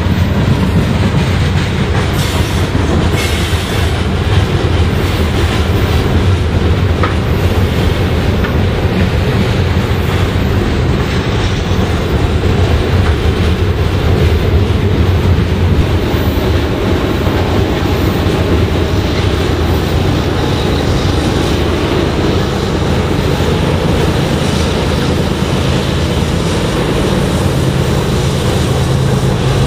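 Freight cars of a long Union Pacific manifest train rolling downgrade past the camera: a loud, steady rumble of steel wheels on rail with some clickety-clack.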